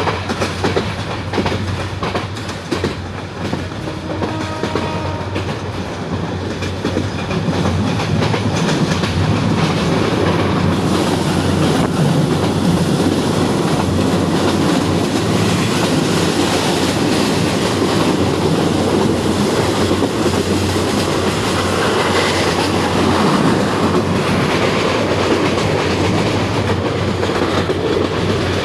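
Train running on rails, its wheels clattering over the rail joints; the noise grows louder about eight seconds in and then stays loud and steady.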